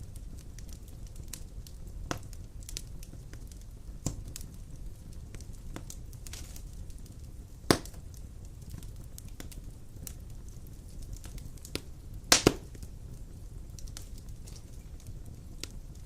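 Wood fire burning in a stone fireplace: a steady low rumble of flames with scattered crackles and two loud pops, one about halfway through and one about three-quarters of the way in.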